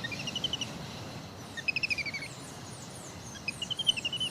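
A songbird singing three quick phrases of rapidly repeated notes, with fainter high, falling chirps from other birds over a steady background hiss of jungle ambience.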